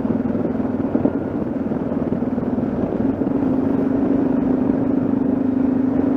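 Yamaha XT660Z Ténéré's single-cylinder engine running steadily on the move, with wind and road noise over it; the engine note rises slightly about three seconds in.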